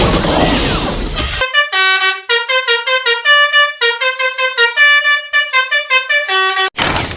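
Telolet horn, a multi-tone truck horn, playing a quick melody of bright notes, about five a second, for around five seconds, then cutting off sharply. A loud rushing noise comes before it, in the first second and a half.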